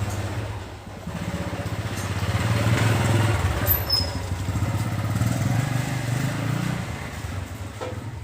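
Yamaha RX-King's two-stroke single-cylinder engine running through an aftermarket exhaust, getting louder about two seconds in and easing back down near the end.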